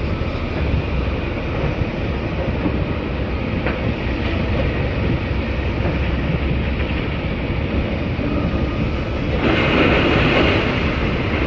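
Steady mechanical rumble of a running machine, with a louder rushing surge about nine and a half seconds in that lasts a second or so.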